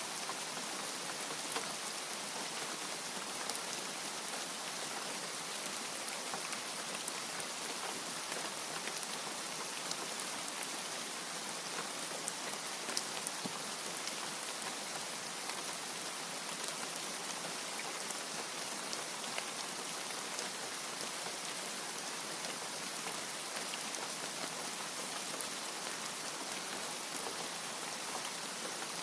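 Steady rain with many individual drops ticking sharply, scattered through an even hiss, and no thunder.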